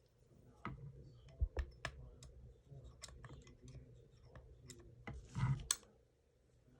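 Small metal tools clicking and clinking irregularly: hex keys being sorted and handled for the rifle's hex screws, with a brief rustle about five and a half seconds in.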